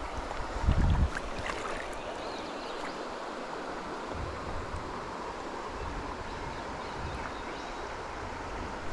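River water running steadily, an even rush, with a brief low rumble about a second in.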